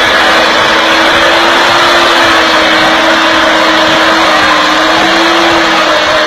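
Loud tractor engine running steadily at high revs, with an even drone and no break.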